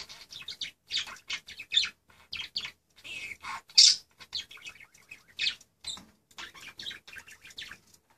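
Pet budgerigar warbling: a steady stream of short, rapid chirps and twitters.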